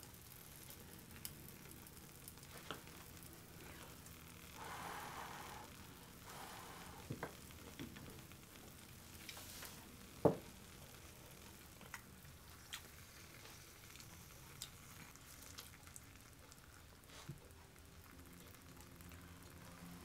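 Faint sizzling and crackling of steamed egg in a hot Korean stone pot (ttukbaegi), with scattered small clicks and one sharp click about ten seconds in.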